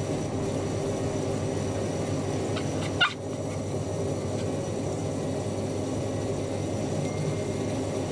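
Washing machines running with a steady pump-like hum, and one short, sharp squawk about three seconds in.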